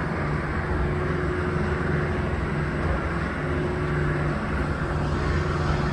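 Incline elevator's hoist motor turning, a steady running hum with a constant low drone and a faint higher tone.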